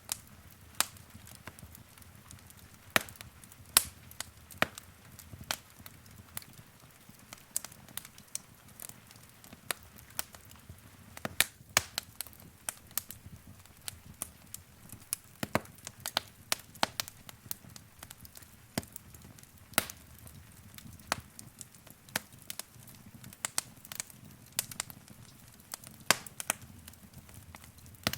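Wood fire crackling: irregular sharp pops and snaps, several a second, over a soft low rumble of the burning logs.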